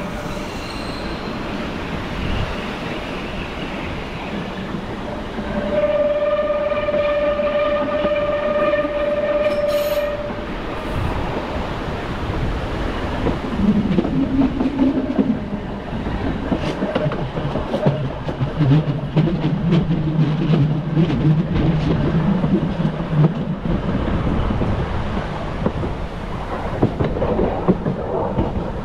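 Bernese Oberland Railway narrow-gauge electric train running on plain adhesion track, wheels clicking over the rail joints. A steady tone sounds for about four seconds a few seconds in, and lower steady tones come in later.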